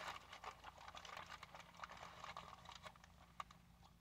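Very faint chewing and mouth clicks with light handling of a wrapped gyro, with small scattered ticks through the first three seconds and one sharper click about three and a half seconds in.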